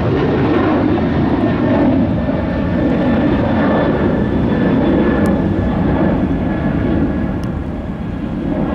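Jet airliner engines at takeoff power on departure: a loud, steady rumble with a faint high whine, easing a little near the end.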